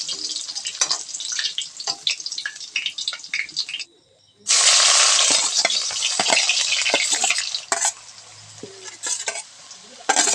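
Chicken and potato curry frying in a pan, sizzling while a spoon stirs and scrapes it with many small clicks. There is a short break about four seconds in, then the sizzling comes back louder and fades to scattered clinks of the spoon near the end.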